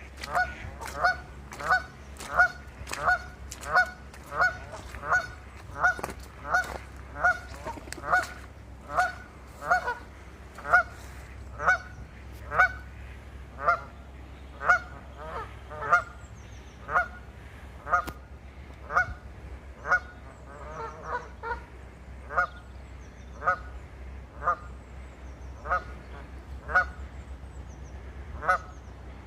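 A goose honking over and over, short honks about once or twice a second, with a few softer, wavering calls in the second half.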